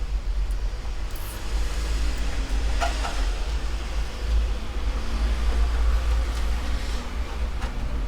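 A steady low rumble throughout, with faint rustling and a few short clicks about three seconds in as power supply cables are handled and tucked inside a PC case.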